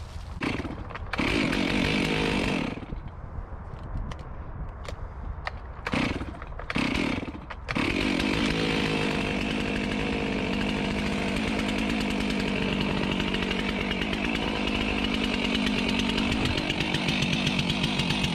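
Two-stroke gas chainsaw running in a few short bursts, then running steadily from about eight seconds in while it warms up.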